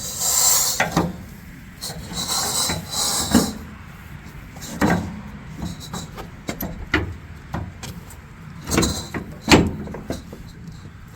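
Work sounds from fitting air bag suspension brackets to a pickup's frame: two brief scraping, rustling noises, then several separate sharp knocks of parts and tools.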